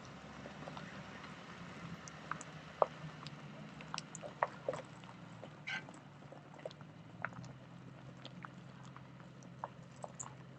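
Faint steady low engine hum with many scattered small clicks and ticks.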